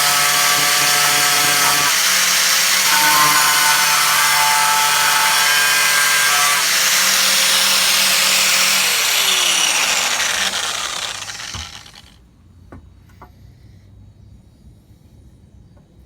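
Power grinder grinding down a metal burr on a sailboat's rudder bracket, running under load for about nine seconds, then winding down with a falling whine and stopping about 12 seconds in.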